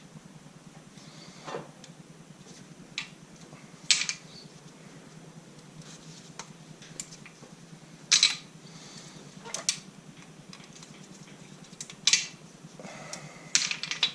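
Metal engine parts clinking and clanking as they are handled and set down, about seven sharp knocks at irregular intervals, over a steady low hum.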